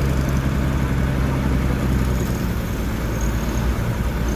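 Heavy truck engine running steadily at a low, even idle.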